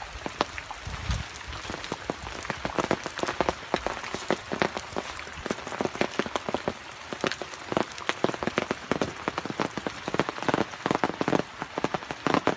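Rain falling, with many separate drops striking close to the microphone at an irregular pace, some much louder than the rest.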